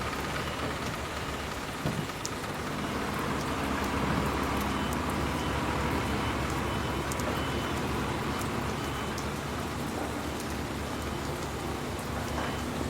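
Steady heavy rain falling and pattering on surfaces, with a brief knock about two seconds in.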